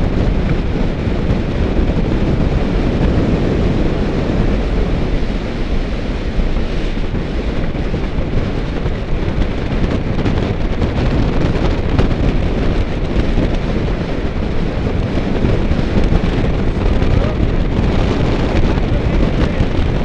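Steady wind noise buffeting the microphone of a camera on a bicycle moving at speed, an even rush heaviest in the low end.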